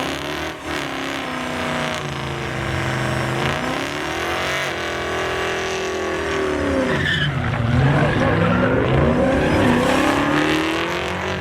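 A truck engine revving hard during a burnout, the revs climbing and falling in long sweeps, over the steady screech of spinning tyres.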